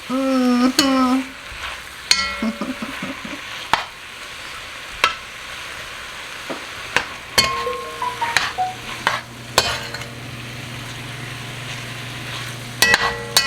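Diced chicken frying in a pot, with a steady sizzle, while a utensil stirs the spices through it and knocks against the pot now and then.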